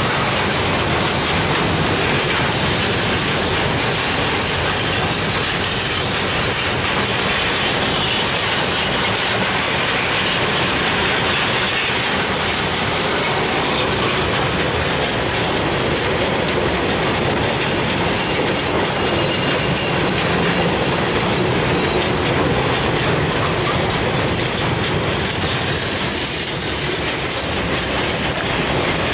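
Long freight train of container wagons rolling past close by: a steady, loud noise of steel wheels running on the rails. A faint high squeal from the wagons comes in near the end.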